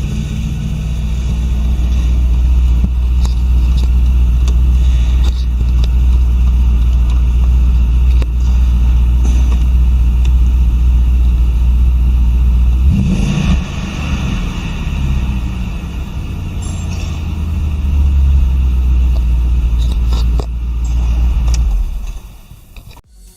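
Audi RS6 Avant (C5) 4.2-litre twin-turbo V8 engine idling with a deep steady rumble, blipped once about halfway, then falling away near the end.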